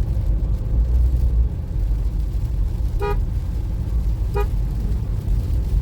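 Car driving with a steady low engine and road rumble, and two short car horn toots, about three and about four and a half seconds in.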